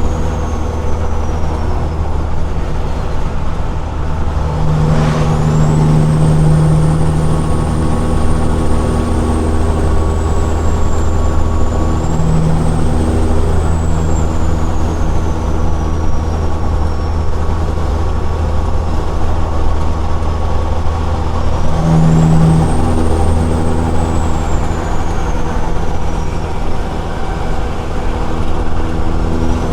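Caterpillar 6NZ inline-six diesel of a semi truck running through straight pipes, a loud steady low drone while driving. The engine note swells briefly twice, about five seconds in and again past twenty seconds.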